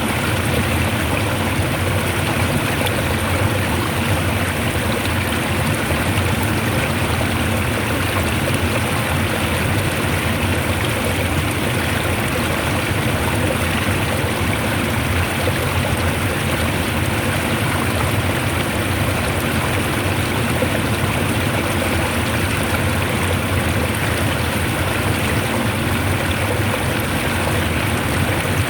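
Fast-flowing water rushing hard and steadily, an even, unbroken water noise.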